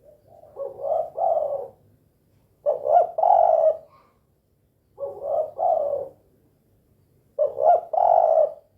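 Spotted dove (tekukur) cooing its 'kuk dua' song: four phrases about two and a half seconds apart, each made of a few low, hoarse coo notes.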